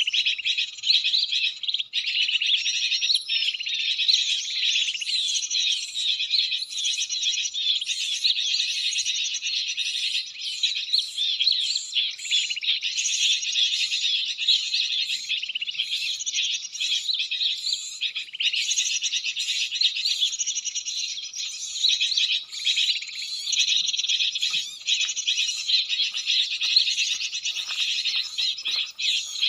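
Dense, continuous high-pitched bird chirping and twittering, many quick calls overlapping without a break.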